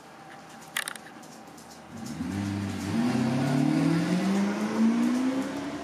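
Lexus SC400's 1UZ-FE V8 accelerating as the car pulls away, its engine note rising steadily in pitch from about two seconds in. Two short clicks come in the first second.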